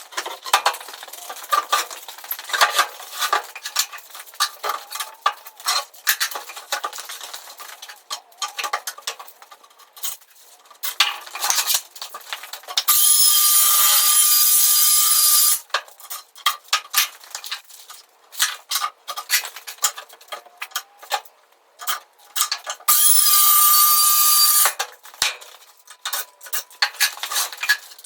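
A Skilsaw beam saw, a large circular saw, runs in two bursts of about two to three seconds each, one midway and one near the end, with a steady high whine over the cutting noise. Between the bursts come frequent clattering knocks and clinks of tools and parts being handled.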